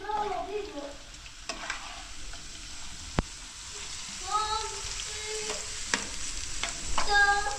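Raw potato sticks sizzling as they fry in a pan of oil, stirred and turned with a metal utensil that clicks against the pan now and then, with one sharp click a little after three seconds in. A few brief high voice sounds break in over the frying, the loudest near the end.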